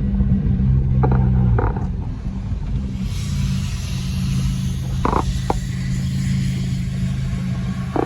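A car engine running, really loud, with a steady low drone. The drone eases about a second and a half in, and a hiss joins about three seconds in, with a few light knocks.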